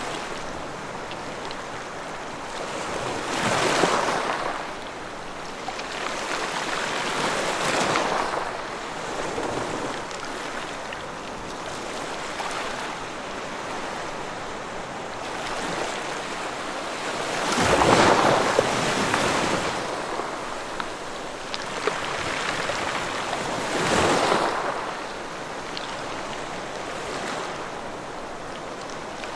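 Ocean waves breaking and washing on a shore, surging and easing every few seconds, with the biggest break a little past the middle.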